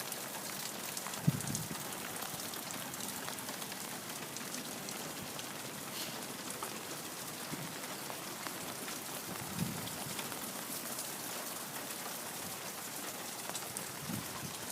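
Steady rain falling: an even hiss made of many small drop hits, with one short thump about a second in.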